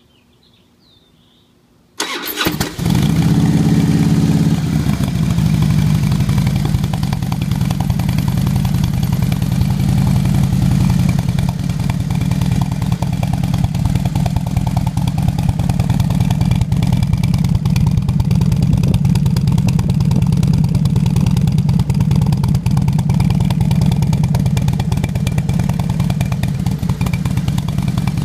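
2006 Harley-Davidson Softail Deluxe's Twin Cam 88B V-twin, breathing through a Bassani Road Rage 2-into-1 exhaust, cranking and catching about two seconds in. It runs briefly higher, then settles into a steady idle.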